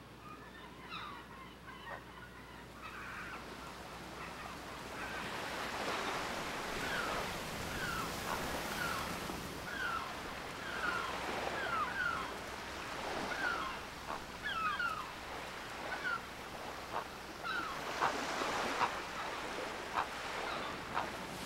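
Birds giving short, falling chirps again and again over a steady background hiss, which grows louder about five seconds in.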